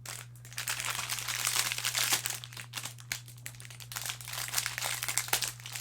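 Foil wrapper of a baseball card pack crinkling and tearing as it is pried and ripped open by hand, in a dense irregular crackle with sharp snaps. The wrapper is hard to tear.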